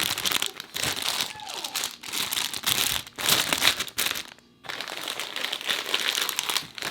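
Plastic packaging being handled and crinkled, in a dense run of small crackles with a brief pause about two-thirds of the way through.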